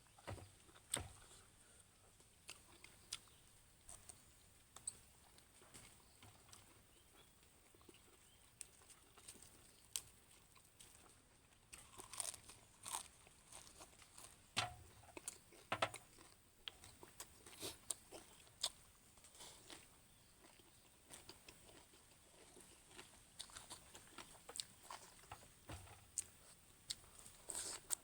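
Quiet eating sounds: chewing and crunching, with scattered sharp little clicks, busiest in the middle and again near the end.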